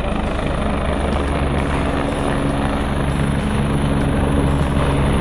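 Helicopter's rotor and turbine engine running, a steady rumble that grows slightly louder.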